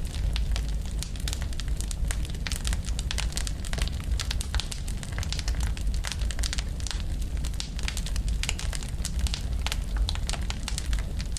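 Burning wood fire crackling: many irregular sharp pops and snaps, several a second, over a steady low rumble.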